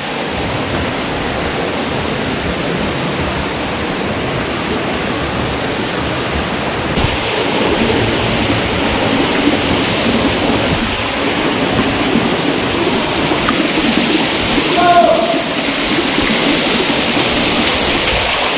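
Steady rush of flowing water in a canyon stream, growing louder and brighter about seven seconds in. A brief pitched, voice-like sound cuts through it about fifteen seconds in.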